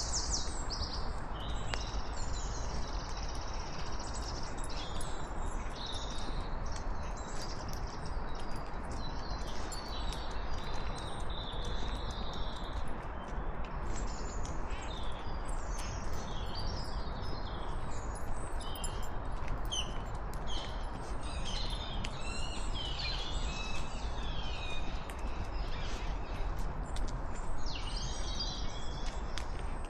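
Several wild birds chirping and singing in quick overlapping calls, over a steady rushing background noise.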